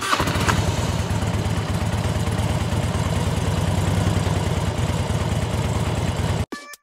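Small motorcycle engine idling steadily, then cutting off suddenly near the end.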